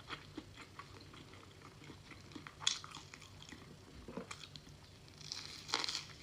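A person chewing food close to the mouth, with soft wet mouth clicks and a few louder smacks.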